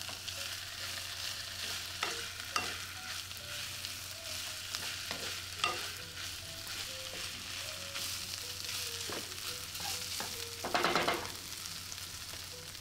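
Chopped crispy pork belly sizzling in a nonstick pan while a wooden spatula stirs it, with short scrapes and taps of the spatula against the pan over a steady frying hiss. A longer, louder stroke comes near the end.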